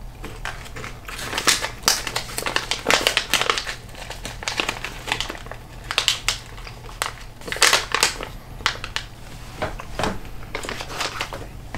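Crunchy chewing of dried, taco-seasoned crickets: a long run of irregular crackles and crinkles.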